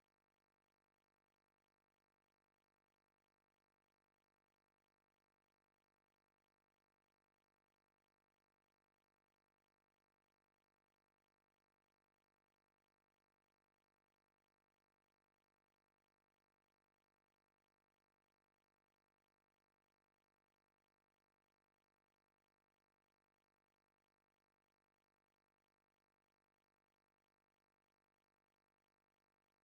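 Near silence: the sound track is practically empty.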